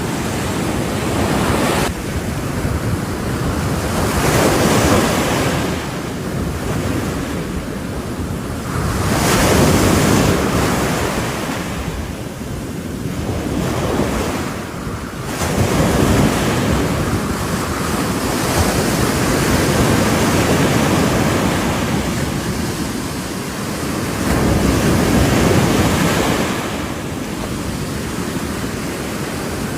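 Ocean waves breaking on a shore, a steady rushing wash that swells up into a louder crash every several seconds and falls back between.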